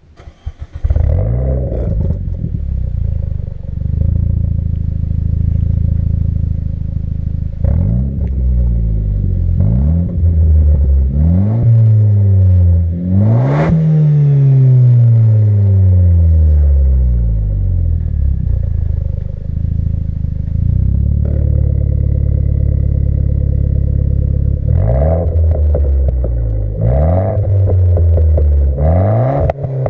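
Renault Clio 4 RS's 1.6-litre turbocharged four-cylinder engine, fitted with a valved exhaust, starting up and flaring as it catches, then idling. Several quick throttle blips rise and fall back to idle, the biggest about halfway through, with a few more near the end.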